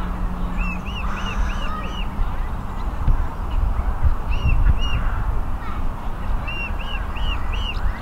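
A bird calling in quick runs of short notes: four or five in a row about a second in, two near the middle and four more near the end, over a steady low rumble.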